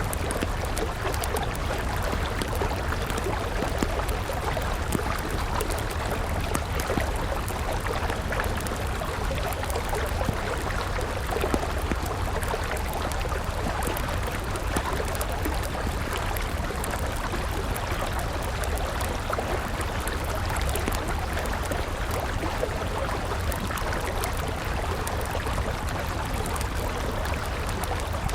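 A river flowing steadily, with a wood campfire crackling over it in scattered small pops.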